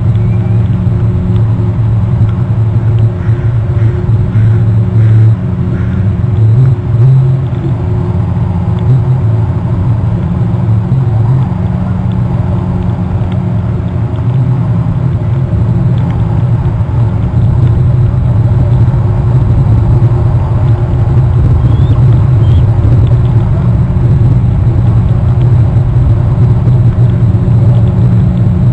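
Steady, loud low rumble throughout. A few faint, short, high eagle calls come through a couple of seconds in and again past twenty seconds.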